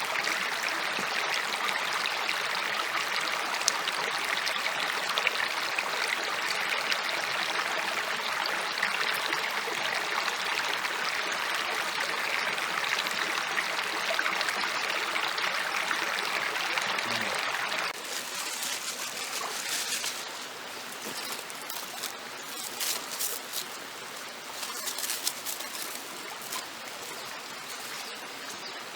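Flowing water, a steady rush like a stream. About two-thirds of the way through it drops abruptly to a quieter background with scattered sharp clicks.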